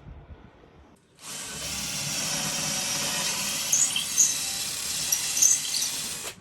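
A power tool starting about a second in and running steadily at a constant whine, with a few short high squeaks, then cutting off abruptly.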